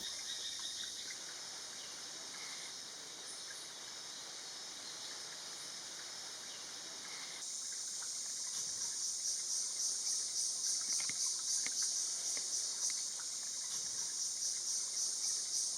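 Forest insects droning steadily at a high pitch, growing louder with a fast pulsing rhythm about seven seconds in.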